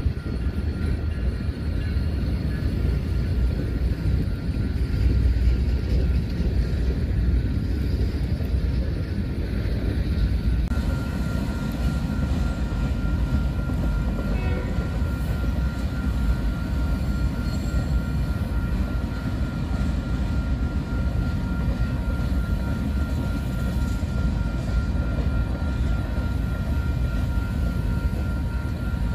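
Freight train rolling past with a steady low rumble of wheels on rail: diesel locomotives first, then freight cars. After about ten seconds a thin steady high tone runs along with the rumble.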